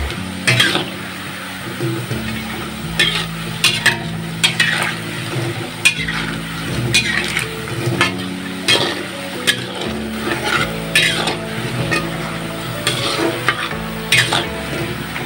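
Tempe cubes frying in hot oil in a metal wok, sizzling, while a metal spatula stirs them with repeated scrapes and clinks against the pan, about one a second.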